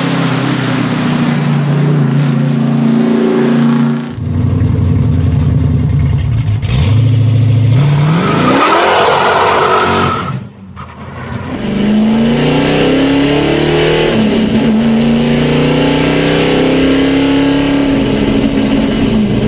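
Race car engines at full throttle in several short clips cut together. One revs up about a third of the way in, there is a brief dip near the middle, and then an engine pulls up through the gears with its pitch rising in steps.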